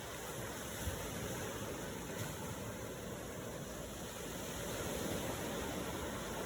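Ocean waves making a steady rushing noise, swelling slightly a few seconds in.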